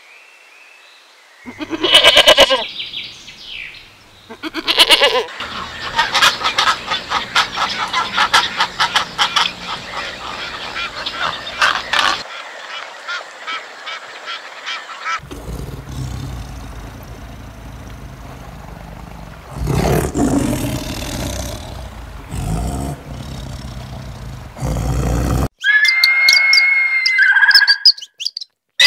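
A goat bleats twice, about two and five seconds in. A long run of rapid clicking and a stretch of low rushing noise follow, and short bird calls come near the end.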